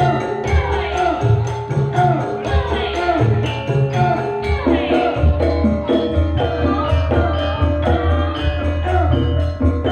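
Javanese campursari music in Sragenan style: gamelan metallophones ringing steady tones over driving kendang hand-drum strokes and a strong bass.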